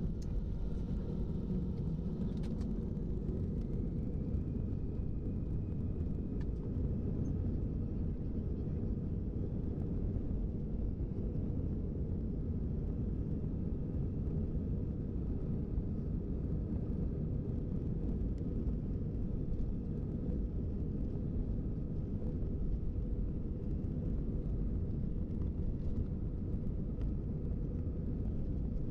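A steady low rumble that keeps an even level throughout, with a faint thin tone rising briefly a few seconds in.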